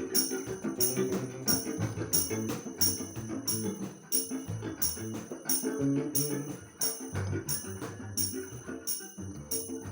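Instrumental music from a folk ensemble without singing: low melodic notes under a steady beat of jingling percussion struck about one and a half times a second.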